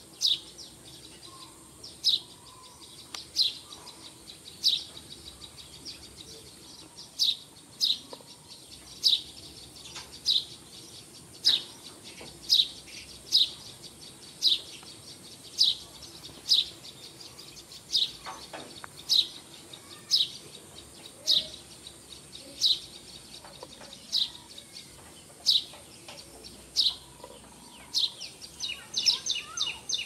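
A bird repeating a short, sharp high chirp about once a second, with a quick run of chirps near the end.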